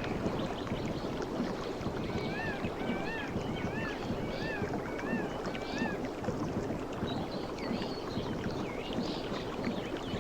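Sea waves washing and rushing steadily on a shore. A bird calls over them, a short arched chirp repeated about six times in the middle, with more high chirps near the end.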